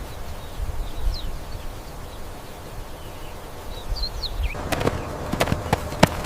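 A few faint short high chirps, some falling in pitch, over a low outdoor rumble, then a quick irregular run of sharp taps or clicks in the last couple of seconds.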